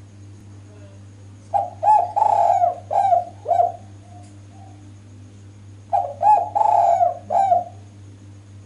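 Female spotted dove (derkuku) cooing: two phrases of several quick, rolling coos, the second starting about two seconds after the first ends, over a steady low hum.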